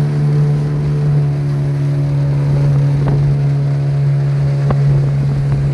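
A small boat's motor running at a steady speed under way, holding one constant pitch, with two faint clicks in the second half.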